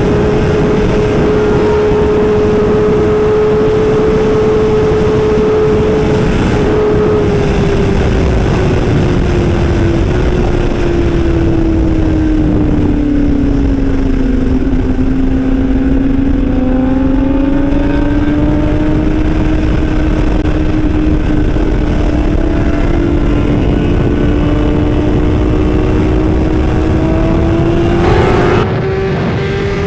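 Motorcycle engine running at road speed with a steady drone over a rushing noise. The pitch slowly falls as it eases off until about halfway, then climbs back as it speeds up.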